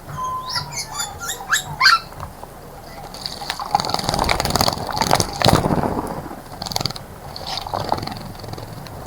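Birds chirping in quick short notes, then water splashing for about three seconds as a bird bathes in a bird bath.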